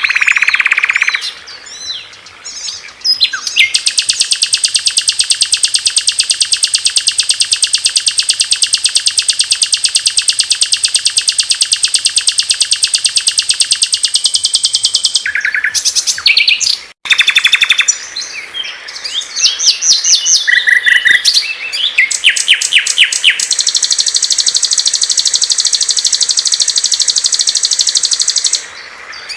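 Small songbirds singing: a long, very fast, high-pitched trill held for about ten seconds, then after a sudden brief break a run of varied short chirps and notes, then another long high trill near the end.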